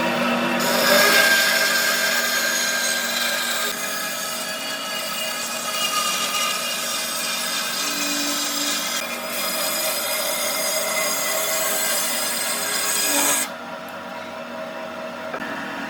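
A power tool working wood, starting abruptly and running with a steady whine over a rough grinding noise. About thirteen seconds in it drops suddenly to a quieter, lower-level running sound.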